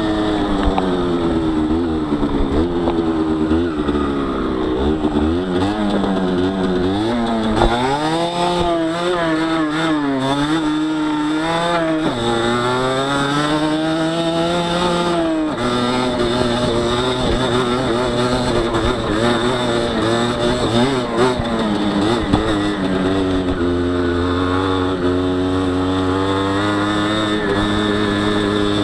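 Honda CRM50 two-stroke single engine, bored out to 63 cc, pulling the bike up a steep dirt trail: its pitch rises and falls with the throttle, and drops suddenly about fifteen seconds in.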